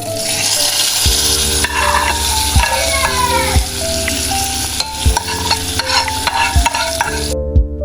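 Food frying and sizzling in hot oil in a pan, a steady dense hiss that cuts off sharply near the end.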